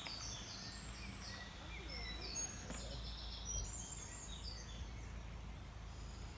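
Small birds singing: many short, high chirping notes overlapping, over a faint low outdoor rumble.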